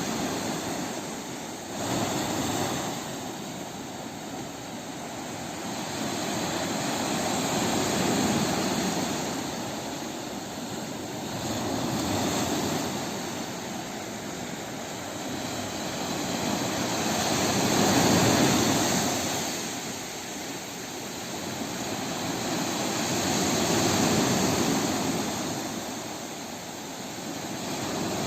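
Sea waves breaking and washing on a shore, a steady rush of surf that swells and ebbs about every five to six seconds.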